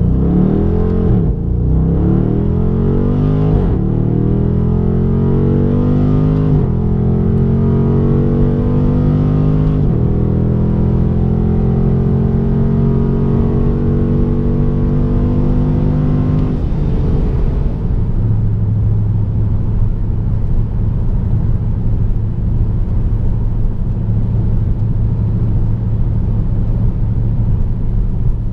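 6.4L 392 HEMI V8 through an AWE Track Edition stainless straight-through exhaust, accelerating hard. Its pitch climbs and drops back at each upshift, roughly four shifts in the first ten seconds, then it pulls through one long climb. Past the middle it lets off and settles into a steady low drone.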